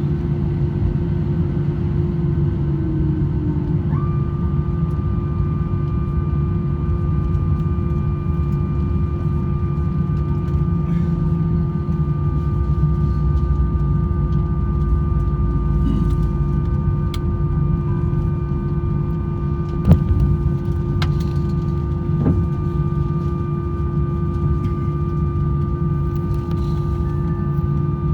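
Cabin noise of an Airbus A321-200 taxiing after landing: a steady rumble and hum, with a higher steady tone that comes in about four seconds in and holds. A few sharp clicks about twenty seconds in.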